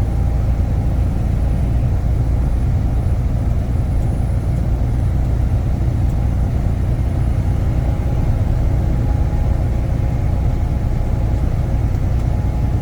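Tractor-trailer driving at road speed, heard from inside the cab: a steady low engine and road rumble that holds even throughout.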